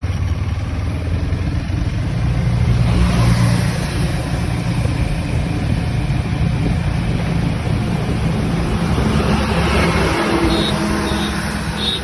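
Motorcycle engine running steadily while riding, a low hum under a loud, constant rush of wind and road noise.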